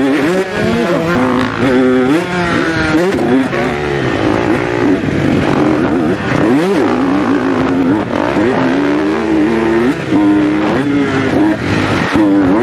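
Dirt bike engines revving hard, their pitch rising and falling again and again as the throttle opens and closes.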